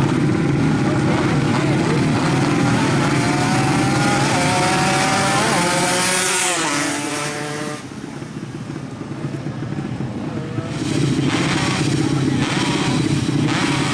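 Racing motorcycle engines at high revs. One bike's pitch climbs to a peak about six and a half seconds in, then drops sharply as it passes. After a brief lull the loud engine noise picks up again near the end.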